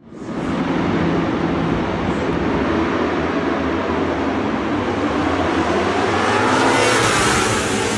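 Superbike racing motorcycles at high revs on track, several engines at once, with one bike's engine note rising in pitch as it accelerates about six seconds in.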